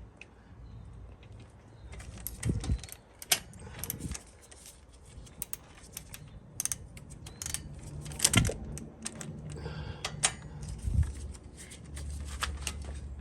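Irregular metallic clicking and clinking of hand tools, a socket and wrench being worked at a wheel's lug nuts, with a few dull knocks in between.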